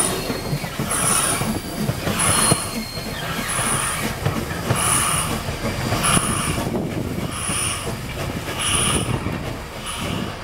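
Heritage railroad train running slowly, with a short high squeak and a burst of noise repeating about once every second and a quarter over a steady rumble.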